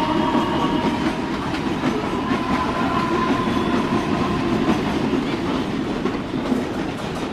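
Mumbai suburban local electric train running on the rails: a loud, steady rumble with a faint steady whine, easing off slightly near the end.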